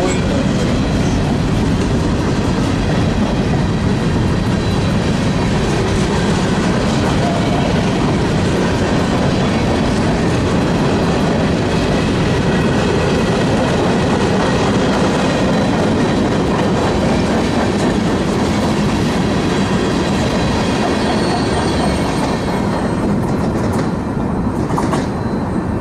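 Freight train cars (covered hoppers, then tank cars) rolling past close by, with a steady rumble of wheels on rail. The sound thins out near the end as the last cars go by.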